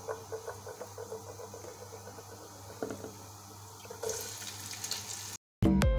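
Chopped garlic frying gently in hot oil in a pot, a soft bubbling sizzle. About four seconds in, sliced onions go into the oil with a brighter, louder sizzle. Just before the end the sound cuts off and background music with a steady beat begins.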